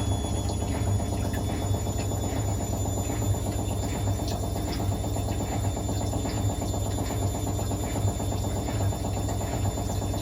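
Hotpoint WML540 washing machine running on its Fast Wash 60' programme at 60°: a steady low motor hum with light, irregular ticks.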